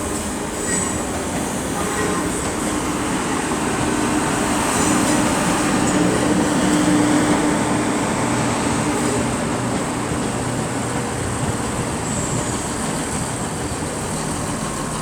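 Class 170 Turbostar diesel multiple unit arriving: its diesel engines hum and its wheels run on the rails, growing louder to a peak about seven seconds in and then easing off.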